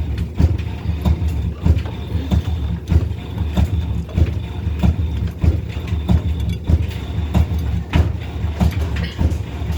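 Hotpoint WF860 washing machine drum turning on broken bearings, giving a loud low rumble with a repeating knock about two to three times a second.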